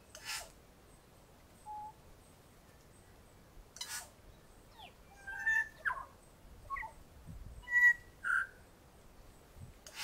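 Wild birds calling: scattered short whistled notes and chirps, with a quick trill about eight seconds in as the loudest sound. Two short hissing bursts come near the start and about four seconds in.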